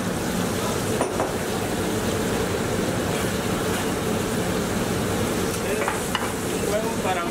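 Egg and shrimp with vegetables sizzling in oil in pans on a gas range, over a steady low hum, with one sharp click about a second in.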